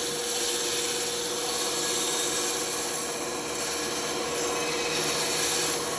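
Band saw running with its blade cutting through wood: a steady rasping hiss over a constant motor hum.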